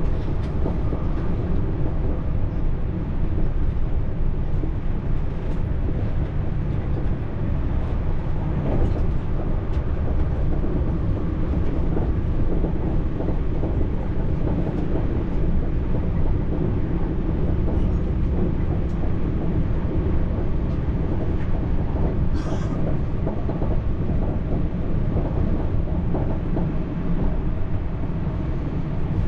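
TER regional train running, heard from inside the carriage: a steady low rumble of wheels on rail with faint scattered clicks.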